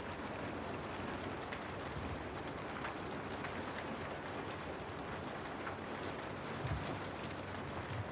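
Steady rain falling on a window, a constant hiss with scattered sharp drop ticks, and a brief low rumble about two-thirds of the way in.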